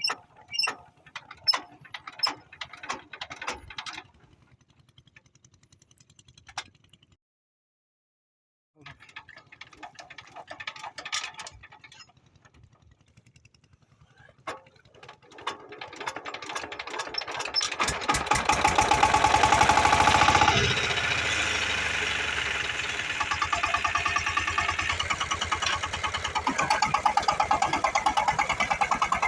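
25 HP diesel power tiller engine being started: scattered clanks and knocks at first, then the engine catches a little past halfway and runs loudly with a rapid even firing rhythm, revving up briefly before settling to a steady run.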